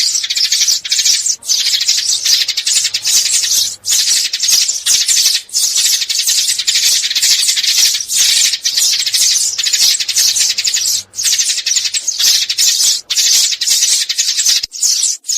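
Sparrows chattering: a dense, continuous run of rapid high chirps with a few short breaks.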